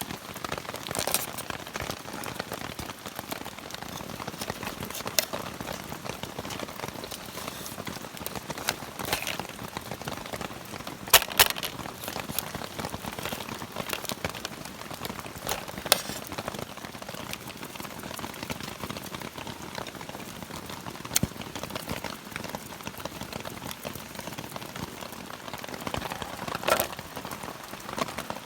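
Steady rain falling, with a sharp click now and then, the loudest about eleven seconds in.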